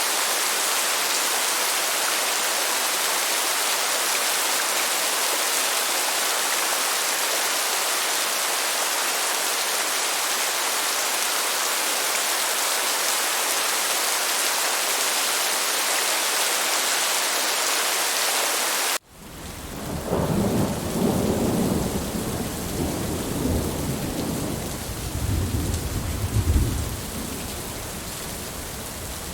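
Steady heavy rain hissing, cut off suddenly about two-thirds of the way in. Quieter rain follows, with low rolling rumbles of thunder for several seconds that fade out near the end.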